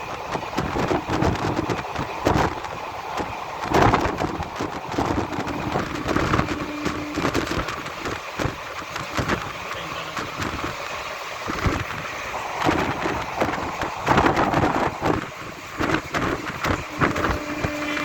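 Purushottam Express train running at speed: a steady rush of air with wheels clattering rapidly over the rail joints.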